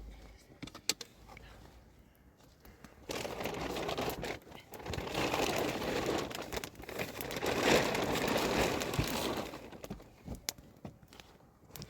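Crinkling and rustling noise, like something being handled or crumpled, starting about three seconds in, easing briefly, and stopping near the end.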